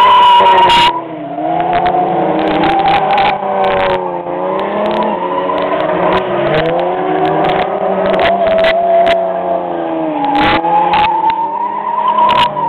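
Ford Mustang engine revving up and down repeatedly as the car is driven hard around a tight course. Its tires squeal in the first second and again near the end.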